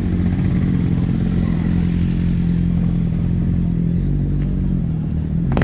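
Motorcycle engine running at a steady speed, with its pitch shifting slightly about four seconds in. A sharp click comes near the end.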